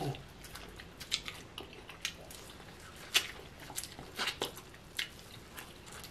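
Close-miked eating sounds: wet chewing and sharp lip smacks while eating sweet corn, coming at irregular intervals with a louder smack a little after three seconds.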